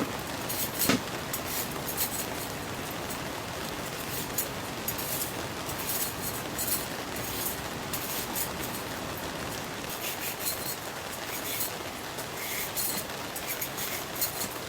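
Steady rain and wind on a tent, with irregular sharp ticks of drops hitting the fabric. There is a knock at the start and another about a second in.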